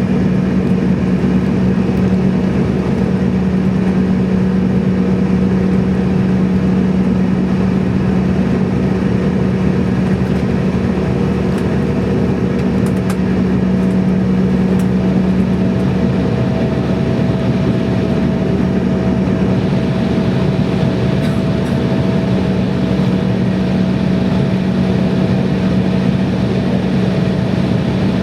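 Steady cabin noise of an airliner taxiing on idling engines: an even rumble with a low hum, joined about halfway through by a fainter higher tone.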